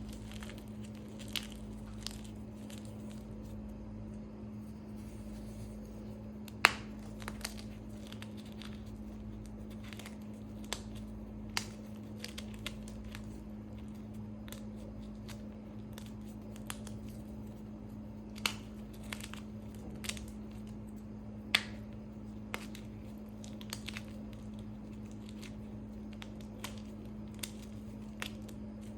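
Blocks and chunks of gym chalk being crushed: irregular gritty crunches and sharp cracks as pieces snap and crumble, two of them much louder than the rest. A steady low hum runs underneath.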